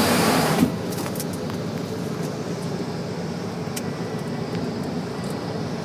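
Steady hum of a car running, heard from inside the cabin; a loud rushing noise from outside cuts off about half a second in.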